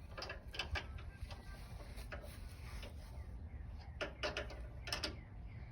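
Scattered light clicks and short knocks of parts and a wrench being handled while the LED light's bolts are tightened, over a low steady rumble.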